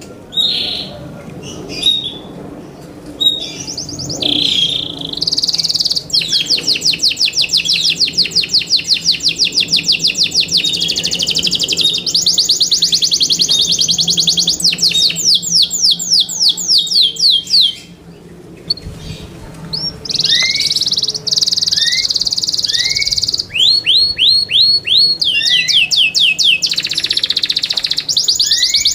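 Yorkshire canary singing: long, rapid trills of quickly repeated high notes, a brief lull about two-thirds of the way through, then short upward-sweeping notes and more fast rolls.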